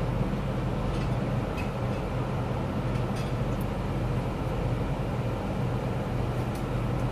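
Steady low hum of a car idling, heard inside the cabin, with a few faint clicks.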